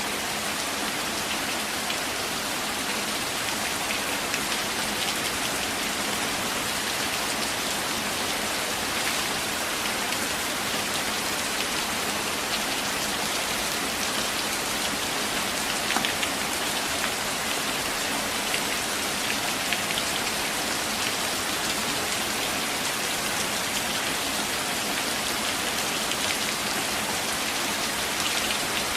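Steady rain falling on forest foliage, an even hiss with scattered individual drops ticking, one a little louder about 16 seconds in.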